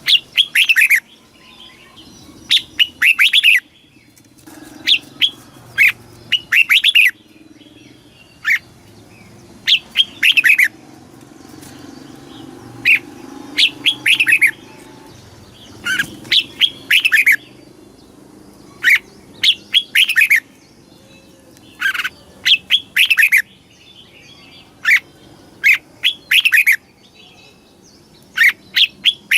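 Red-whiskered bulbul singing: short phrases of a few quick, clear notes, repeated every one to three seconds, over a faint low hum.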